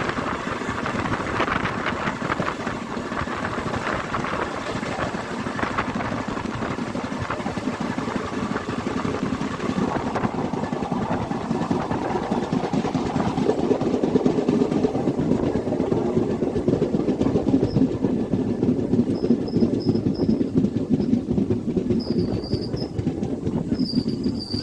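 Train moving along a rail track: a steady rumble and rattle that grows louder about halfway through. Faint high chirps come in near the end.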